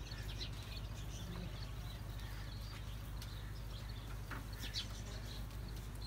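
Scattered short, faint bird chirps over a steady low hum.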